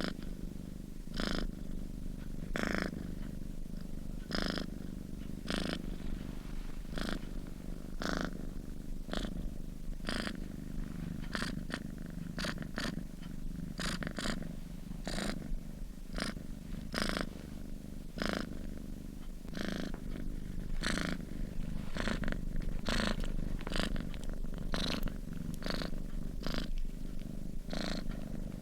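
Domestic cat purring steadily in its sleep, a low continuous rumble. Short sharp clicks recur over it about once a second, closer together near the end.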